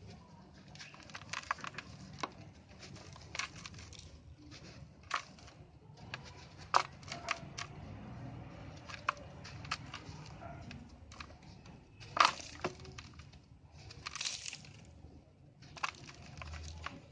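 Shapes of dried brown dirt being crushed and crumbling: irregular crunches and sharp cracks, loudest about seven and twelve seconds in, with a short grainy crumble near fourteen seconds.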